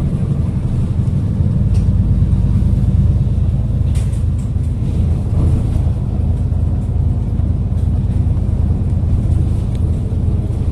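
City bus under way, its engine running with a steady low drone and road rumble, heard from inside the passenger cabin.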